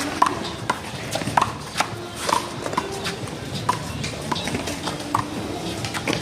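A rubber handball being hit during a one-wall handball rally: about ten sharp smacks at irregular half-second to one-second intervals, as hands strike the ball and it slaps off the wall and pavement.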